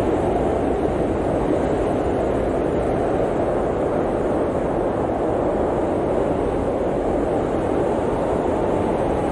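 Blizzard wind blowing in a steady, dense rush, deepest around the low middle of the range, with no gusts or breaks.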